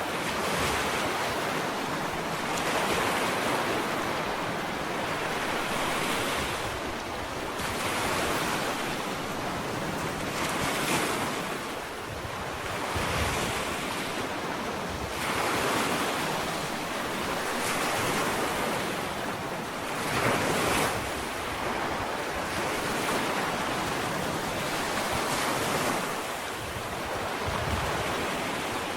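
Ocean waves breaking and washing up a sandy beach, the surf swelling and easing every few seconds, with some wind on the microphone.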